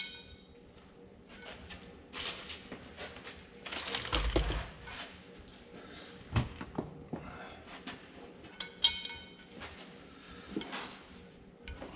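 Steel engine parts being handled as a retainer and heated gear are fitted onto a camshaft: scattered clinks, scraping and a knock, with one ringing metallic clink near the end.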